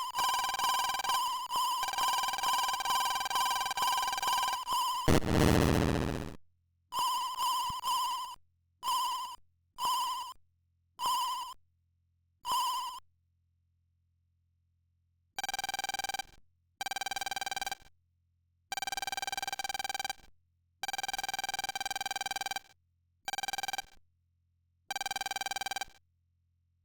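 Electronic telephone ringing tones. First a fast warbling ring, then a short loud noisy burst, then a string of short separate beeps, a pause, and six longer, slightly lower rings with short gaps.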